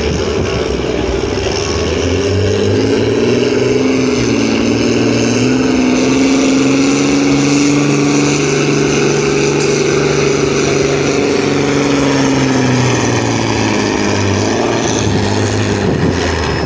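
Farm tractor engine running hard under load in a tractor pull. Its pitch climbs over the first few seconds, holds high and steady through the middle, then falls away near the end.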